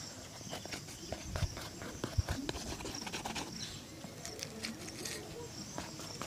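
Irregular light taps and clicks from hands working a shoe and shoe-shine tools, with a few sharper knocks about a second and two seconds in.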